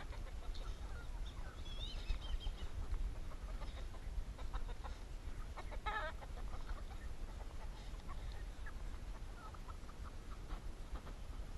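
Chickens clucking in short, scattered calls over a steady low rumble, with a denser cluster of calls about halfway through.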